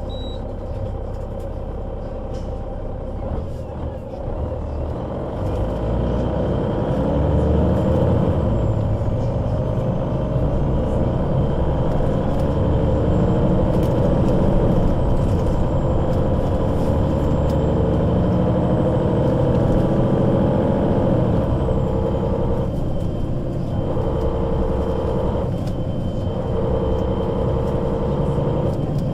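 Solaris Urbino 12 III city bus's diesel engine and Voith automatic gearbox running under way. From about five seconds in it grows louder and its whine slowly rises in pitch as the bus accelerates, then dips briefly twice near the end.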